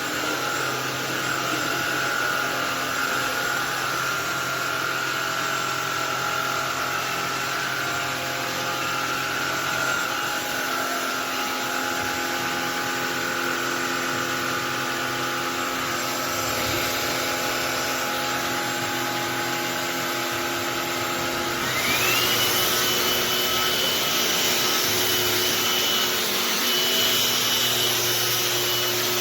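Cordless stick vacuum cleaner with a brushless motor running steadily. About three quarters of the way through, its motor winds up to a higher steady whine and it gets louder.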